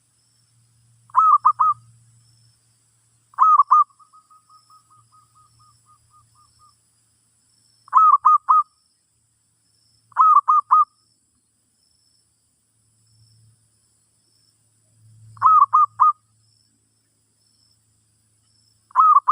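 Zebra dove cooing: six bursts of three quick coos each, spaced a few seconds apart, one of them followed by a string of about a dozen soft short notes trailing off. A faint low hum sits underneath at times.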